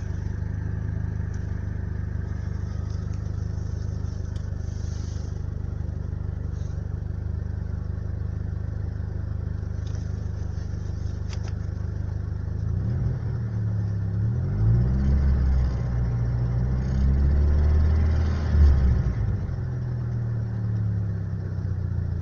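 Mercedes-Benz M102 four-cylinder petrol engine, hot, idling steadily, then revved up and let fall back twice. At higher revs it has a high-pitched knock from the timing end, which the owner traced to pulled-out bolts on the rocker-arm support of the fourth cylinder.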